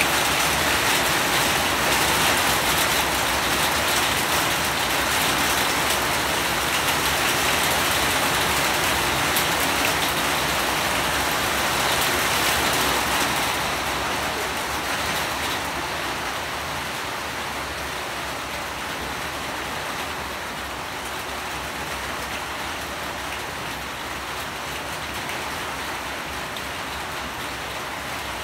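Steady rain falling as an even hiss, easing to a quieter patter about thirteen seconds in.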